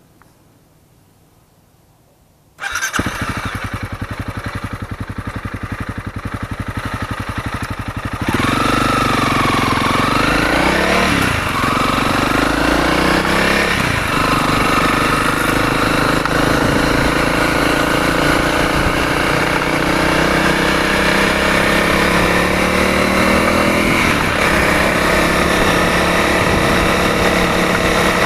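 Honda CRF300L's single-cylinder four-stroke engine starting a few seconds in and idling with a fast, even exhaust beat. About eight seconds in the bike pulls away, the engine revving up and dropping back through the first gear changes, then settling into a steady run.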